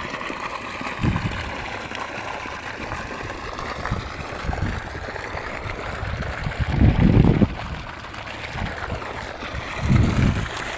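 Water running steadily, like a flowing stream, with a few low rumbling bumps; the strongest comes about seven seconds in, another near the end.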